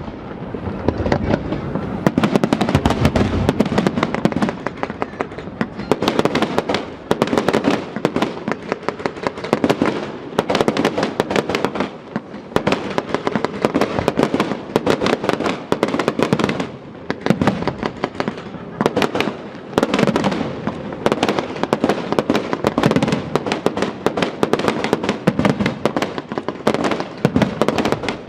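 Fireworks display: a continuous dense barrage of shell bursts, bangs and crackling, many reports each second with no pause.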